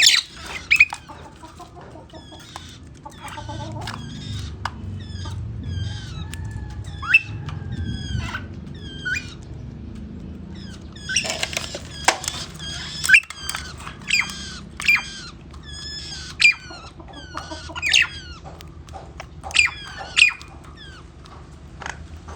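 Small pet birds chirping repeatedly in short, sharp, high calls while being fed caterpillars.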